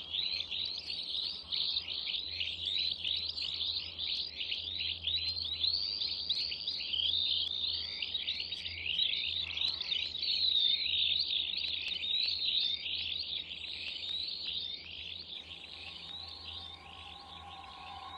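Many small garden birds chirping and twittering in a dense, continuous stream of quick falling notes, over a low steady hum. Steady droning tones come in faintly near the end.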